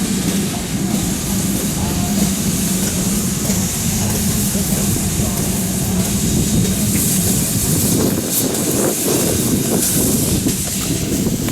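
A train running on the rails: a steady low rumble and hum under a constant hiss, with no pauses.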